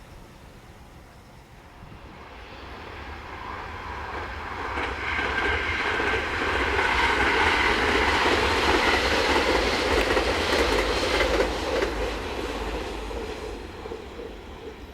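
Electric train passing: its rumble and wheel-on-rail noise build up over several seconds, are loudest about halfway through, then fade away near the end.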